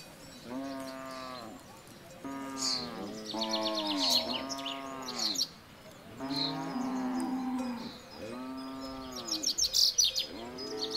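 Cows mooing: several long, drawn-out moos a second or two apart, two cows at times calling over each other. A small bird's fast, high trilling song comes in about the middle and again near the end.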